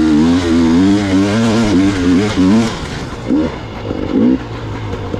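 Gas Gas EX 300 two-stroke dirt bike engine on the throttle, its pitch wavering up and down for a few seconds, then a few short throttle blips.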